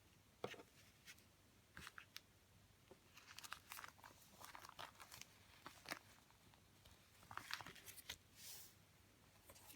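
Paper and plastic stationery items being handled: soft, irregular crinkling and rustling with small clicks, busiest in the middle.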